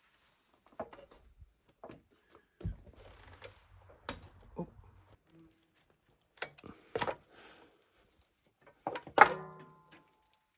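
A series of separate knocks and clunks of tools and metal parts being handled, with the loudest a sharp metal clank about nine seconds in that rings on briefly.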